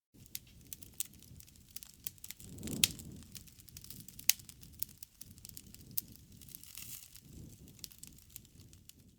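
Wood campfire crackling with frequent sharp pops over a low rush of flame, the burning swelling briefly about a third of the way in.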